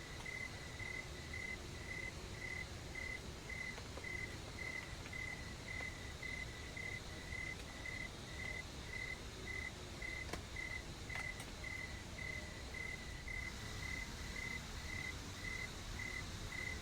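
An insect chirping at one steady pitch, about two chirps a second and evenly spaced, over a steady low background rumble. Two faint clicks come a little past the middle.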